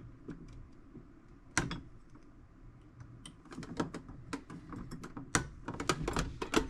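Irregular clicks, taps and scrapes of a small blade prying at parts stuck in a toolbox. There is a sharp click about a second and a half in and a quick run of clicks near the end.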